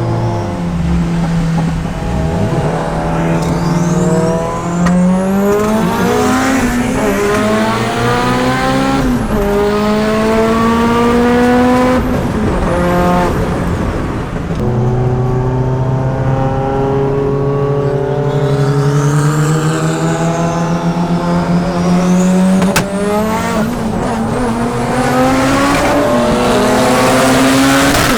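Turbocharged car engine accelerating hard through the gears: its pitch climbs and drops back at each shift several times, with a stretch of steady cruising midway, and a high whistle rises and falls above it.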